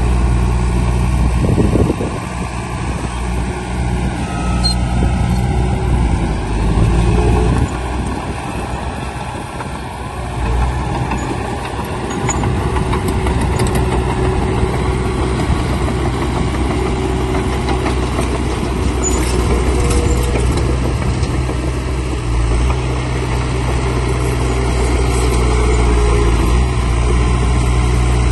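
Heavy diesel engine of earthmoving machinery running. Its pitch and load shift a few times in the first third, then it settles into a steady run.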